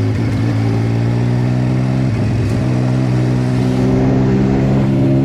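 Triumph Speed Triple 1050's inline three-cylinder engine running at steady, fairly high revs, a little louder about four seconds in.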